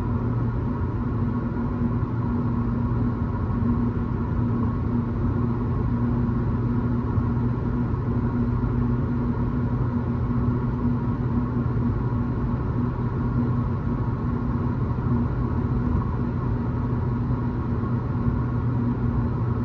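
2006 Acura RSX Type-S's K20Z1 four-cylinder engine running through an Invidia N1 catback exhaust, holding a steady speed with an unchanging low drone.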